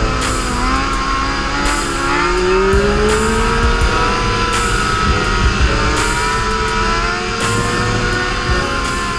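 Sport-bike inline-four engine running and revving, its pitch rising about two to three seconds in, under a hip-hop track with a steady beat.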